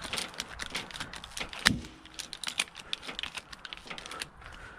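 Ratchet-strap hardware being rigged and ratcheted to pull the damaged front end: rapid, irregular metallic clicks, with one heavier knock about one and a half seconds in.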